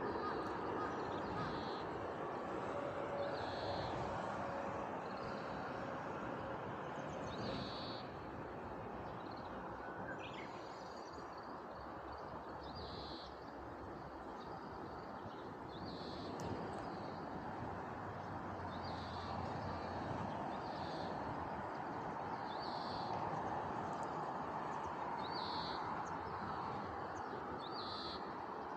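A bird calling over and over, short notes repeated every two to three seconds, over a steady background rush.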